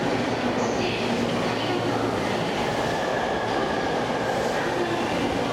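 TWR 70-000 series electric commuter train pulling out of the platform and gathering speed, a steady rumble of wheels on rails with faint motor tones.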